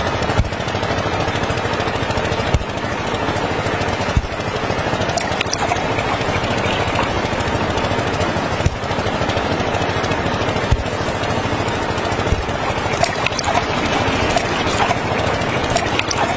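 Small diesel engine of a homemade mini tractor running steadily with a rapid clatter, with a few sharper knocks.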